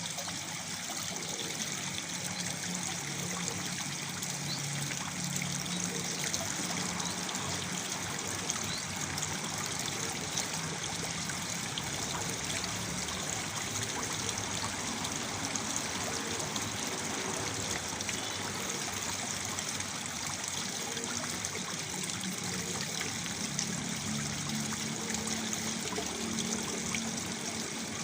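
Waterfall: water falling and splashing steadily into a pool, an even, unbroken rush.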